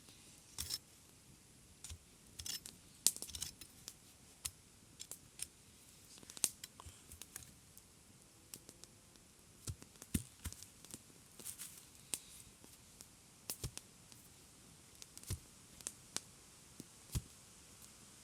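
An irregular series of short, sharp clicks and snaps, a few each second, over a faint steady background.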